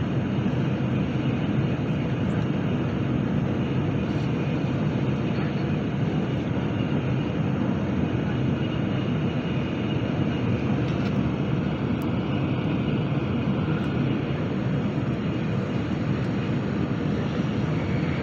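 Steady running noise of a Nozomi Shinkansen bullet train travelling at speed, heard inside the passenger cabin: an even low rushing hum with no breaks.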